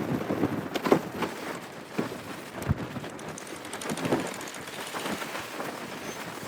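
Wind and water noise aboard a boat at sea, with a few sharp knocks.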